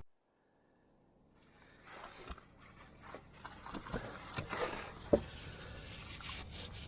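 Scrapes and clicks of something being handled, with a few knocks and one sharp knock about five seconds in, after near silence in the first second.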